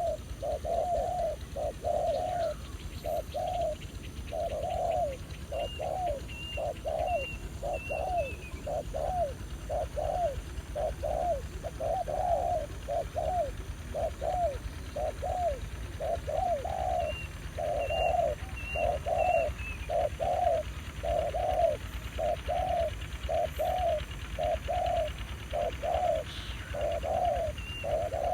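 Spotted doves cooing in an unbroken run of short, low coos, about one a second. Three times a small bird adds a quick run of high notes that drop in pitch at the end.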